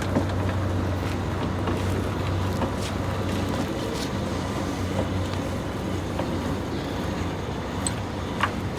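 Steady low drone of the car-hauler rig running while a small inoperable car is winched up onto the trailer, with a few light clicks.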